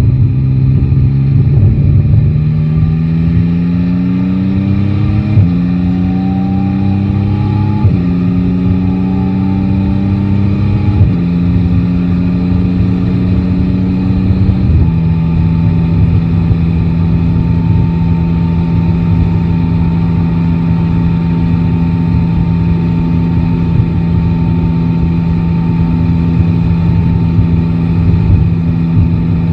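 Yamaha Tracer 9 GT's three-cylinder engine accelerating hard through the gears: the pitch rises and then drops with each of four upshifts, after which the bike cruises at a steady speed. Road and wind noise run underneath.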